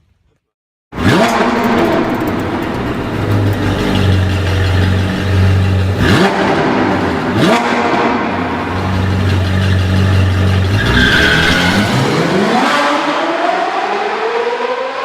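A car engine revving hard under acceleration, starting abruptly about a second in. Its pitch drops and climbs sharply twice in the middle, then rises in one long climb near the end.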